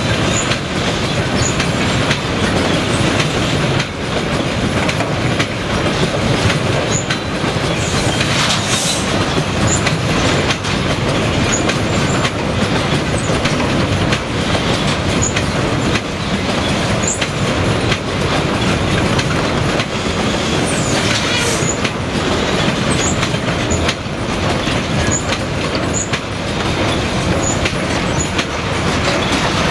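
Long freight train of double-deck enclosed car-carrier wagons rolling steadily past on the near track: a continuous loud rumble of wheels on rail with clickety-clack over the joints. Two brief high wheel squeals, about 8 and 21 seconds in.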